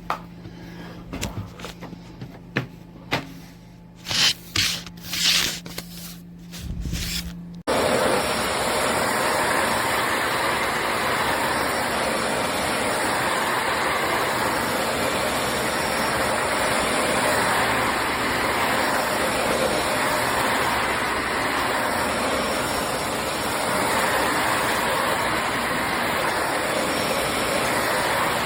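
Dyson Ball Animal 3 Extra upright vacuum cleaner: a few clicks and knocks of handling, then about a quarter of the way in the motor starts abruptly and runs steadily with an even rushing noise.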